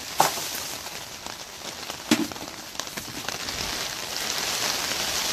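Steady rain on a greenhouse's plastic cover, growing heavier near the end, with two sharp knocks, just after the start and about two seconds in, as a plastic bucket of dead leaves is tipped into a plastic barrel.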